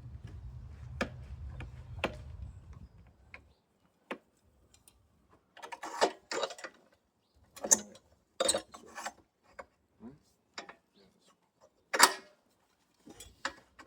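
Scattered knocks, clicks and scrapes of boards and metal clamps being handled and adjusted on a wooden table top. A low hum stops about three and a half seconds in.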